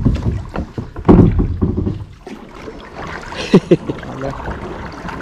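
Kayak being paddled: irregular paddle splashes and knocks against the kayak, loudest right at the start and again about a second in.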